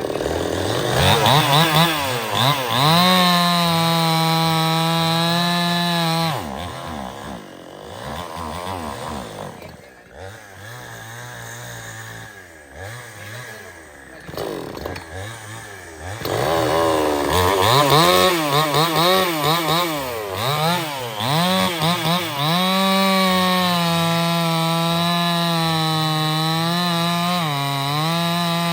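Stihl 070 two-stroke chainsaw revving up and running at high speed. It drops back to a quieter, lower running speed for about ten seconds in the middle, then revs up again and holds high speed, with two brief dips near the end.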